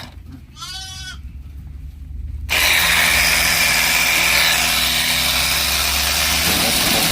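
A goat bleats once, a short arching call, over the low running of a motorized sprayer's engine. About two and a half seconds in, the sprayer's high-pressure spray hiss starts abruptly and becomes the loudest sound.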